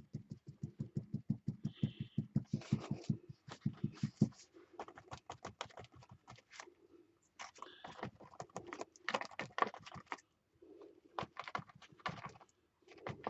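A small sponge dabbed onto a paper page, stencilling paint through punchinella: quick soft taps, about six a second for the first four seconds, then irregular bursts of dabbing with short pauses.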